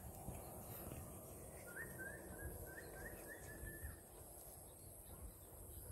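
A bird chirping: a quick run of about eight short rising notes from about two seconds in, over a faint low rumble.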